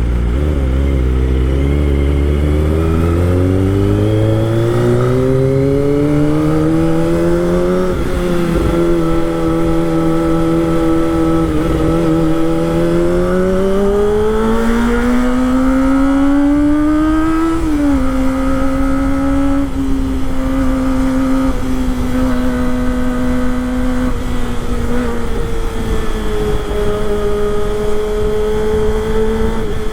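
Kawasaki Ninja ZX25R's inline-four engine under way, its pitch climbing smoothly over the first several seconds, holding steady, then climbing again before dropping sharply a little past halfway and settling into a steady cruise.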